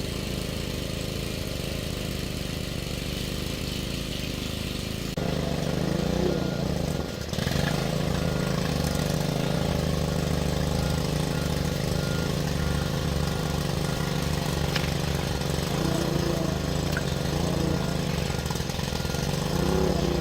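A small engine running steadily with a low, even hum, becoming louder about five seconds in.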